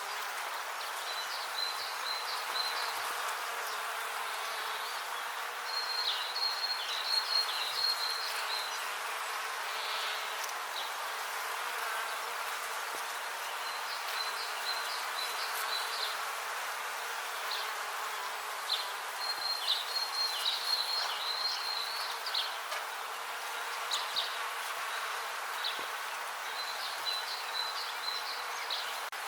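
Many bees buzzing in a steady, dense hum. Clusters of short high chirps come and go every few seconds over it.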